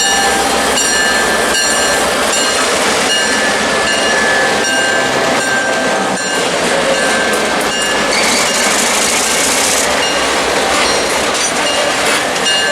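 Passenger train rolling along, its wheels clicking at regular intervals over rail joints, with a thin, steady high squeal from the wheels.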